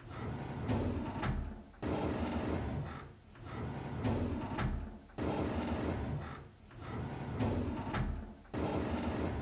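A drawer sliding open over and over: a rumbling slide with sharp clicks, the same cycle repeating about every three and a half seconds.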